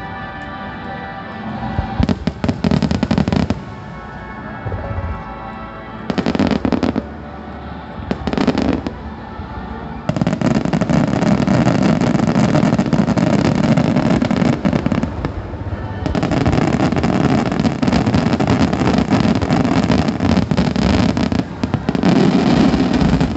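Fireworks finale: rapid, dense crackling and banging of many shells bursting. It comes in short volleys from about two seconds in, then runs nearly without a break through the second half. Music plays underneath at the start.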